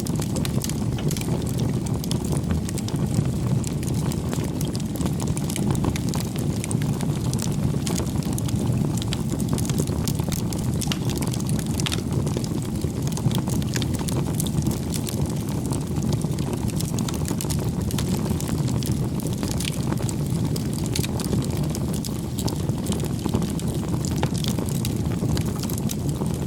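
Wood fire burning: a steady low rumble of flames with frequent small crackles and pops throughout.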